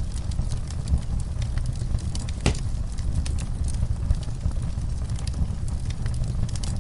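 Fire burning in a fireplace, crackling with frequent small pops over a steady low rumble, and one sharper pop about two and a half seconds in.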